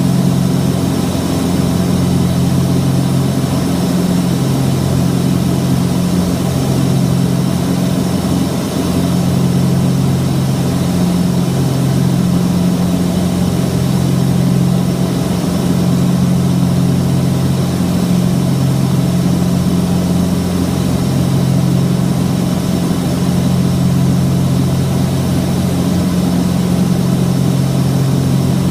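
Twin piston engines and propellers of a Cessna 421 droning steadily, with a deep, even hum.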